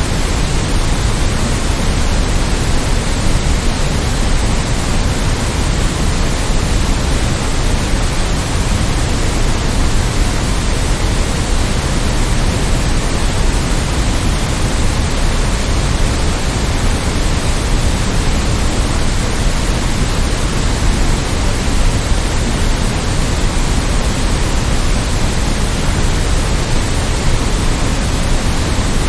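Steady synthetic white noise: an even, unchanging hiss spread across all pitches, slightly heavier in the low end.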